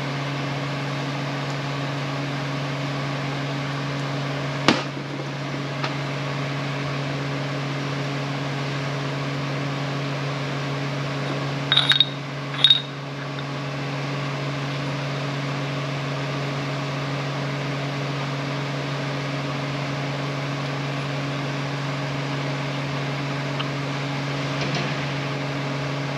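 Steady low shop hum, with a sharp click about five seconds in and two ringing metal clinks near the middle as small impact-wrench parts are handled and fitted together.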